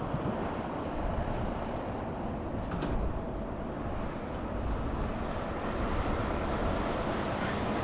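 Semi truck traffic driving past: a steady rumble of diesel engine and tyre noise, growing a little louder near the end, with a brief click about three seconds in.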